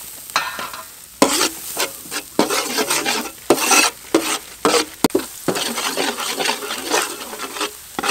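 Minced garlic sizzling in hot oil in a large steel wok, stirred with a metal ladle that scrapes across the pan about twice a second.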